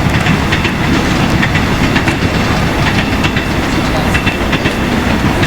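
A passing train, its wheels clattering over the rails as a fast run of clicks over a steady rumble.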